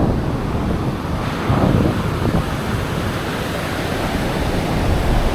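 Waves breaking on a sandy beach, mixed with wind buffeting the microphone in low, uneven rumbles.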